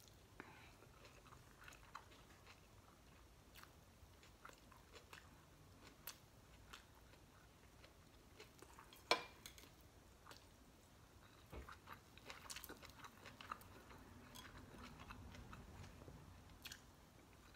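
Faint close-up chewing and biting of crispy fried fish, with scattered small crunching clicks and one sharper click about nine seconds in.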